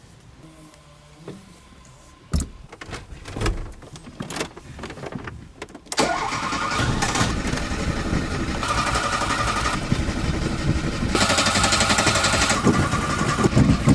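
Scattered thumps and knocks for a few seconds, then about six seconds in a Renault 9's starter motor begins cranking the engine continuously. The engine is being cold-started on the choke and does not fire up properly.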